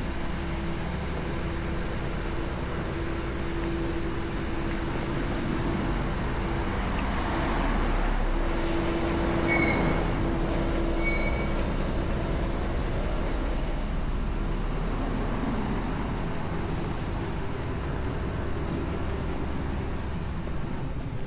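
Steady rumble of passing vehicle traffic with a low steady hum. It swells a little around the middle and eases off again.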